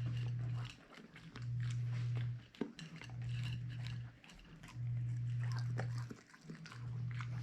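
Siberian husky growling low in repeated growls, each about a second long with a short breath between, while eating, with wet chewing and biting clicks over them.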